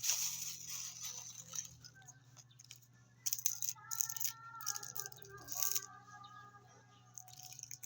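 Crackly rustling from a snack being handled and eaten close to the microphone, in three bursts: at the start, about three seconds in and about five seconds in. Faint background music and a steady low hum run underneath.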